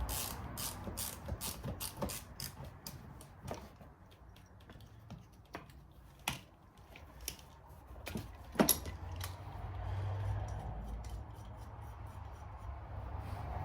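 Ratchet wrench clicking in quick runs as bolts are worked loose on an engine, then a few single sharp metal clicks and clinks of tools and parts.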